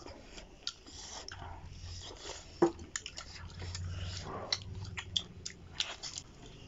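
Close-up eating sounds: chewing, lip smacks and short wet clicks as duck meat is bitten and torn off the bone by hand, with one sharper click about two and a half seconds in.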